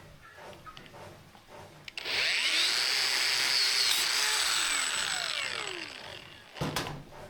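A power tool running on the workpiece for about four seconds, its whine rising and falling as the load changes, then fading out as it stops. A single sharp knock follows near the end.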